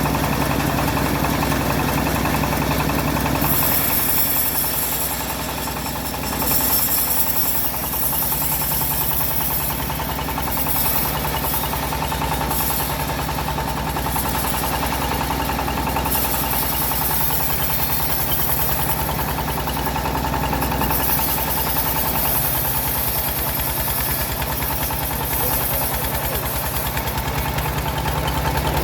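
Engine-driven homemade bandsaw sawmill running steadily, with a high hiss from the blade that comes and goes in stretches of several seconds.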